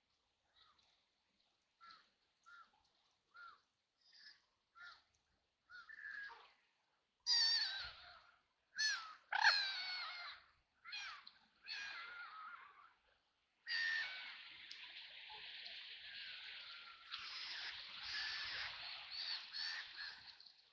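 Ducks quacking: a run of short quacks that grows louder, then harsher, louder quacks, then several seconds of dense, overlapping quacking near the end.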